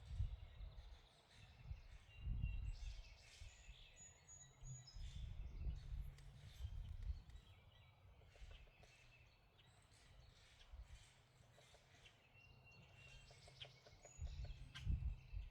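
Birds chirping and calling on and off in short high notes, over irregular low rumbles.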